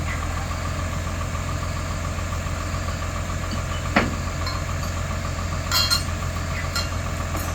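Excavator's diesel engine idling steadily, with one sharp knock about four seconds in and a brief clatter near six seconds.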